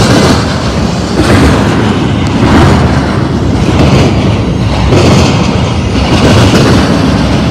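Intermodal freight train cars rolling past at close range: loud rumble and rattle of steel wheels on rail, swelling and easing about once every second and a quarter as the wheel sets go by.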